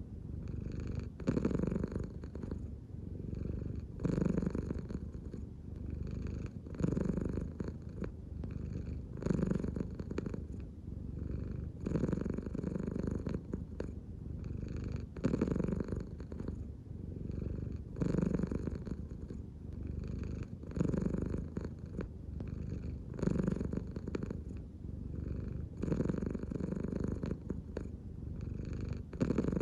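American Shorthair cat purring in a relaxed state. The purr swells and eases with each slow breath, about every three seconds, as the belly rises and falls in deep abdominal breathing.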